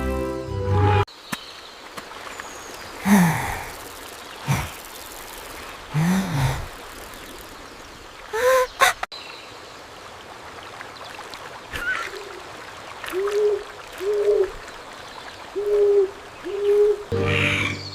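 Animal call sound effects over a steady background ambience: a few scattered calls that slide in pitch, then a run of five short calls, each rising and falling in pitch, near the end. Music stops about a second in.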